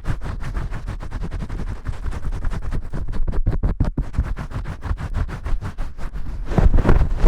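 ASMR shampoo sounds: hands scrubbing hard and fast right on the microphone, a rapid rhythmic scratching and rubbing of several strokes a second, louder from about six and a half seconds in.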